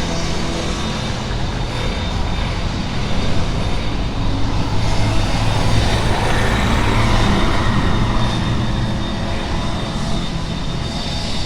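Street traffic: a steady engine drone, with a vehicle passing close and growing louder, then fading, around the middle.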